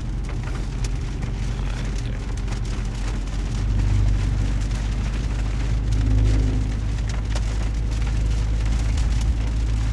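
Heavy rain on a moving car, with a steady low engine and road drone heard inside the cabin that swells a little about four seconds in and again about six seconds in.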